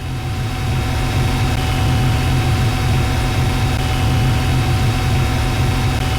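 A heavy engine running steadily: a deep, low rumble fading in at the start, with a faint steady whine above it.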